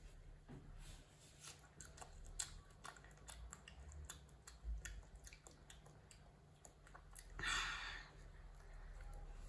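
Faint wet chewing and small mouth clicks of young children eating fresh strawberries. About seven and a half seconds in there is a brief, louder hissing noise.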